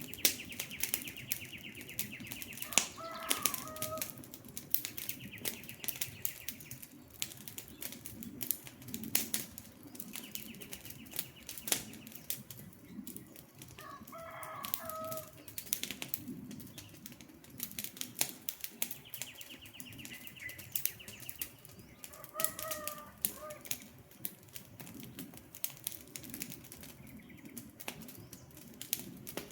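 Campfire crackling and popping over a low rumble of burning logs. A bird call comes back about every nine seconds, three times in all: a fast buzzy trill, then a short two-note call a couple of seconds later.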